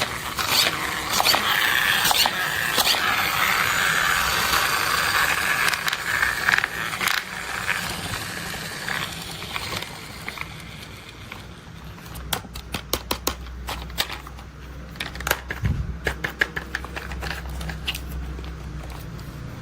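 Plastic toy construction vehicles being handled: several seconds of crackling, scraping noise, then a quick run of sharp clicks and taps.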